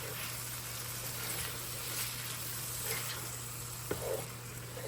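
Ground turkey with cream of celery soup and milk sizzling in a cast iron skillet as it is stirred together, with a light click of the utensil about four seconds in.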